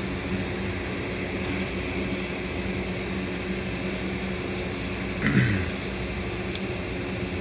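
Steady low mechanical hum with a few constant tones, from running machinery or an engine. A little past five seconds in, a brief tone slides down in pitch and is the loudest moment.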